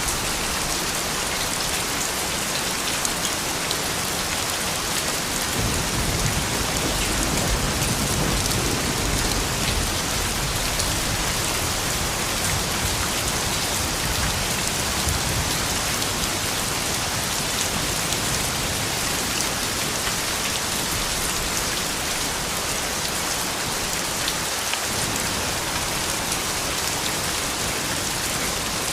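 Steady rain falling, a dense even patter of drops. About five seconds in, a low rumble swells and then fades away over several seconds.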